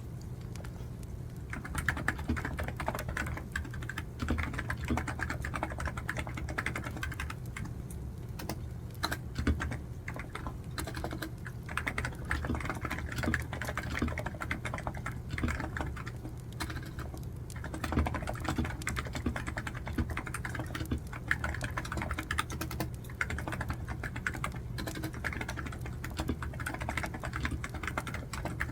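Computer keyboard typing in quick, irregular runs of keystrokes, starting about a second and a half in and pausing briefly a couple of times, over a steady low hum.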